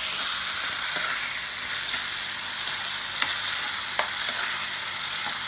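Dried prawns and garlic sizzling steadily in hot oil in a kadhai as they are stirred with a metal spoon, which clicks sharply against the pan a few times, most loudly about three and four seconds in.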